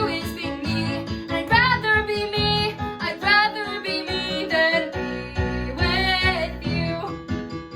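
A young female voice singing a melody to acoustic guitar accompaniment, some held notes wavering with vibrato.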